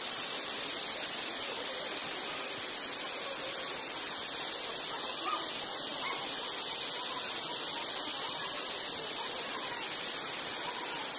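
Steady rushing hiss of a waterfall, mostly high with little low rumble.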